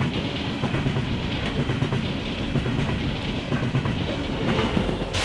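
Empty coal train's hopper cars rolling past at speed, their wheels clattering over the rail joints with a steady rumble. Near the end a BNSF diesel locomotive placed within the train passes, adding a steady engine hum.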